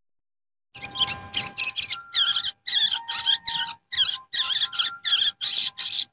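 Recorded song of a sogon bird, played as a lure call: a rapid run of short, high-pitched chattering chirps in quick phrases with brief gaps, starting about a second in.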